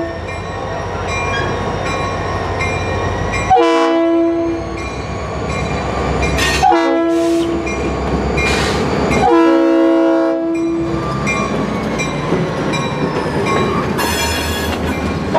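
Diesel freight locomotive's multi-chime air horn blowing the end of a grade-crossing signal: a long blast, a short one, then a longer one, over the steady rumble of the idling locomotive and train. Small repeated high pings run underneath, typical of a crossing bell.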